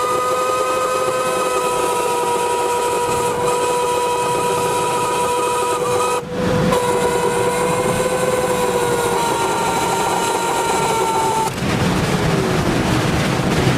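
Outdoor warning siren sounding a steady chord of several pitches over wind noise. Its pitch sags slightly, and about 12 seconds in it winds down in a falling glide.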